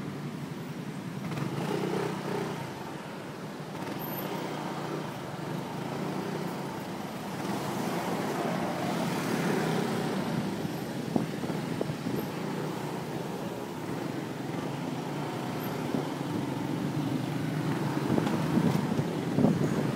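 Motorcycle engine running while riding through city streets, mixed with traffic noise. The sound is a steady hum that gets somewhat louder near the end.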